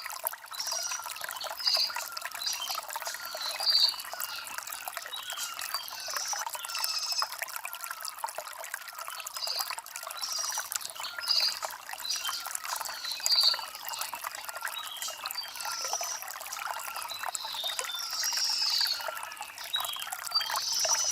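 Water trickling over stones in a stream, with birds chirping in short high calls every second or two.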